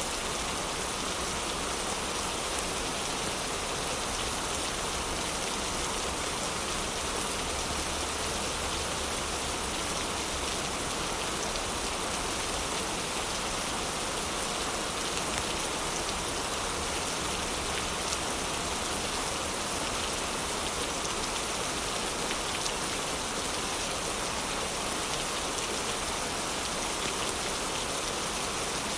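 Heavy rain falling steadily, an even hiss with a dense patter of drops.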